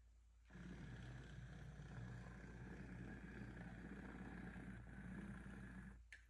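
Bachmann OO/HO Thomas the Tank Engine model locomotive running slowly on its track: a steady motor hum that starts about half a second in and stops shortly before the end.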